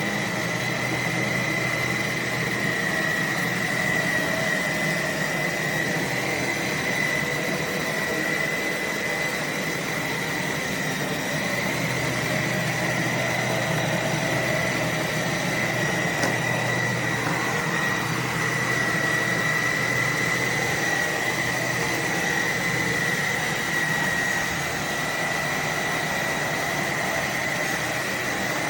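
Cordless stick vacuum's motor running steadily, with a high whine over a low hum.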